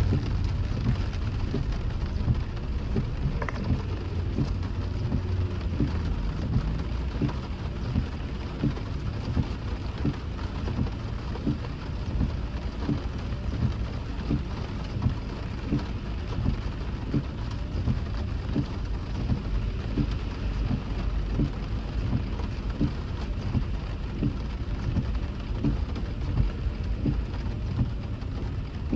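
Rain drops ticking irregularly on a moving car over a steady low rumble of road and engine noise.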